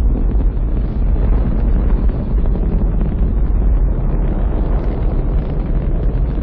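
Rocket engines thundering at launch: a loud, steady, deep rumble with a crackling edge.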